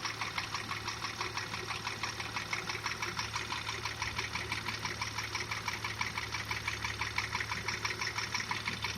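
Porsche Macan engine running steadily with a rapid, even knock. The knock is the sign of scored cylinder walls, which a borescope inspection found.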